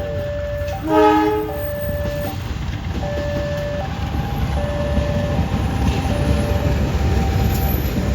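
Level-crossing warning signal sounding in two alternating tones. A train gives a short horn blast about a second in, and its rumble grows louder as it comes through.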